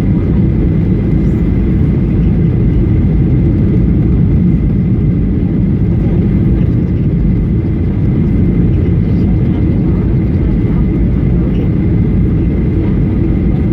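Steady cabin noise inside a Boeing 737 heard from a rear seat: a loud low rumble of engines and airflow, with a faint steady high tone over it.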